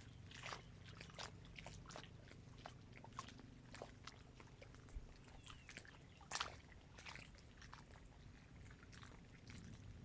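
Small waves lapping at the water's edge of a dam: faint, irregular little splashes and clicks, one louder slap about six seconds in, over a faint low hum.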